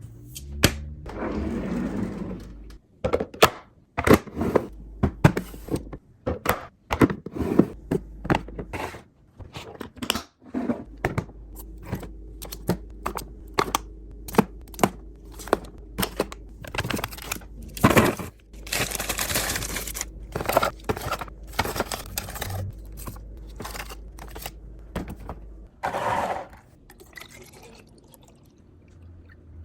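Handling of food containers and packaging: a long run of clicks, knocks and thunks as items and lids are set down and closed, with a couple of brief noisy stretches like rustling or pouring.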